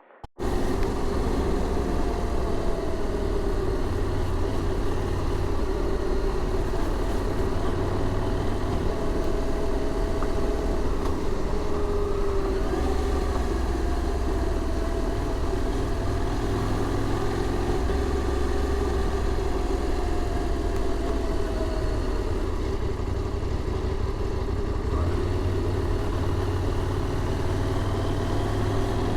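A vehicle engine running steadily, with a low rumble and a few faint tones that slowly waver in pitch.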